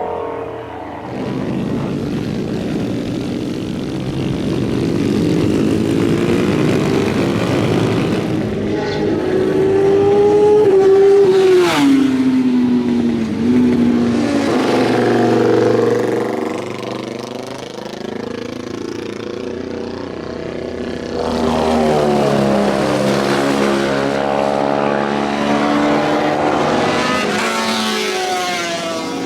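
Motorcycles on the circuit, several engines revving and changing pitch through the gears. About twelve seconds in, one bike passes close, its note dropping sharply as it goes by.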